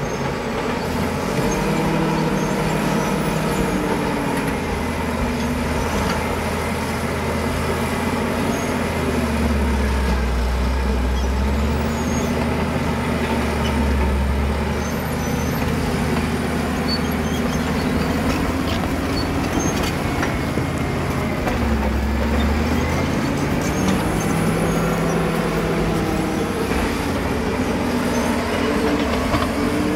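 Caterpillar D7 bulldozer's diesel engine running under changing load, its revs rising and falling several times.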